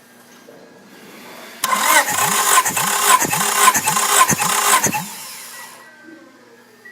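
Honda F23A 2.3-litre inline-four engine starting and running briefly about a second and a half in, surging in pulses about twice a second, then cutting off and dying away.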